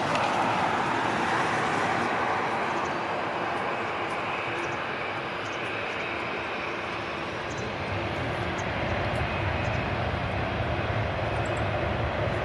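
Airbus A340-300 jet airliner's four CFM56 turbofan engines, a steady rushing jet noise. It eases slightly midway, then grows with a deeper rumble over the last few seconds.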